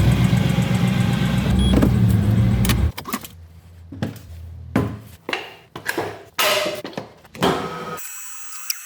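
Mercedes-AMG C63's 6.2-litre V8 running steadily for about three seconds, then cutting off abruptly. A string of separate knocks and clicks follows.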